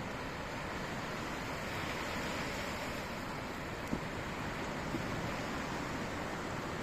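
Steady wash of sea surf, with a campfire giving a sharp crackle about four seconds in and a smaller one about a second later.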